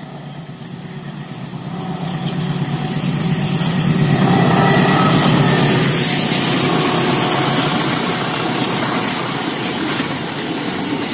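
Diesel locomotive-hauled passenger train approaching and passing close by. The sound swells over the first four seconds as the locomotive nears, then holds as a steady rumble of the coaches rolling past.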